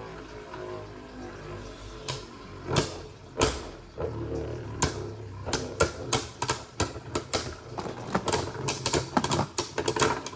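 Two Beyblade Burst spinning tops, Venom Devolos and Harmony Pegasus, spinning in a plastic stadium with a low whir, then striking each other in sharp clacks. The clacks come faster and closer together over the last few seconds of the battle.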